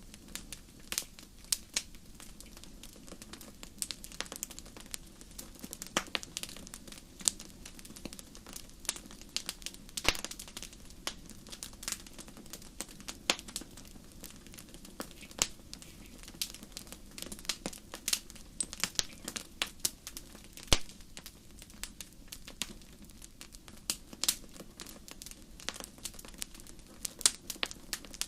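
Wood fire crackling in a fireplace: frequent irregular sharp pops and snaps over a low steady hiss of burning.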